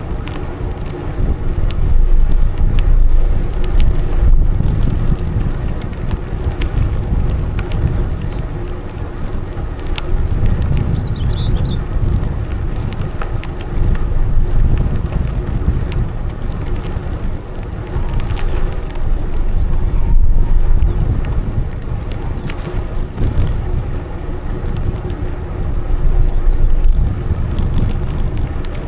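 Bicycle ride on a path: wind buffeting the microphone in gusts over the steady rumble of tyres rolling along.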